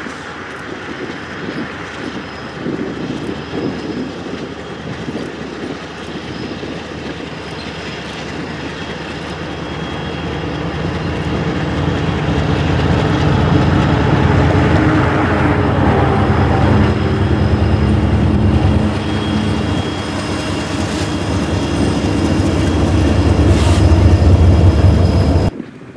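Train passing close by. A low engine rumble grows louder through the second half, then cuts off suddenly just before the end.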